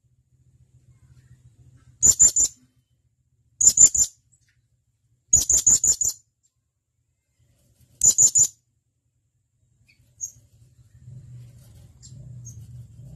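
Blue-crowned hanging parrot (serindit) giving sharp, high-pitched calls: four quick bursts of three to five shrill notes each, a second or two apart, then a couple of faint single notes near the end.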